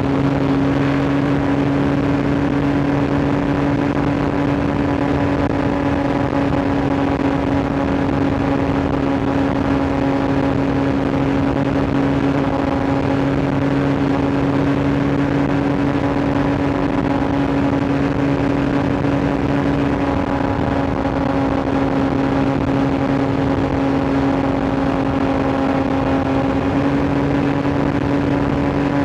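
Sport motorcycle engine running at steady cruising revs, its pitch holding level, over a rush of wind and road noise.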